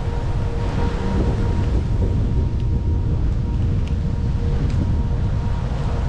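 Steady low rumble of a car driving through stormy wind, with wind buffeting the microphone and a faint steady tone underneath.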